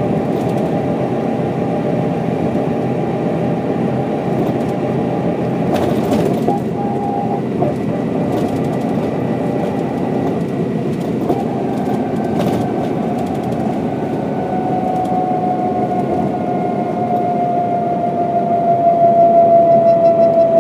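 A 1995 Mercedes-Benz O407 bus running along a country road, its diesel engine and road noise steady. A whine slowly falls in pitch over the last several seconds, and there are a couple of brief knocks.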